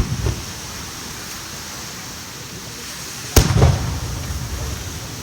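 Fireworks shells bursting: a sharp bang at the start and another about three and a half seconds later, each followed by a low rumbling echo, over a steady background hiss.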